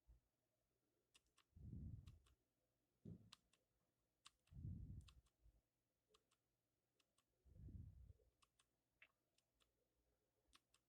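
Near silence with faint scattered clicks and a few soft, low rumbling swells.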